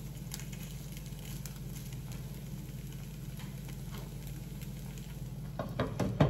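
Oat appams frying in oil in a non-stick appe pan, with a soft crackle of scattered small ticks over a steady low hum. Near the end a glass lid clatters as it is set down on the pan.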